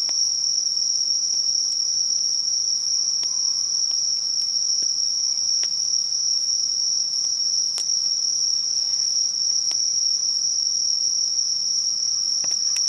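Singing insects keep up one steady, unbroken high-pitched trill, with the wood fire of a bonfire giving sparse, sharp crackles and pops over it, the loudest pop about eight seconds in.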